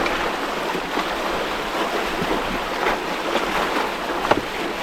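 Steady rush of water along a moving sailboat's hull, with a few small splashes.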